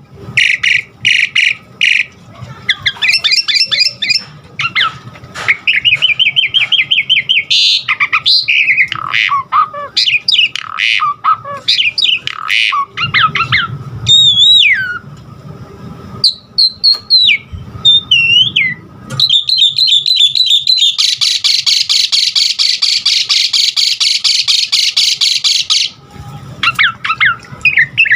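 Javan pied starling singing a long, loud, varied song: harsh rasping calls, quick chattering runs and clear whistles that slide up and down, with a harsh buzzing chatter lasting about five seconds two-thirds of the way through. It is the full, varied song kept starlings are trained on.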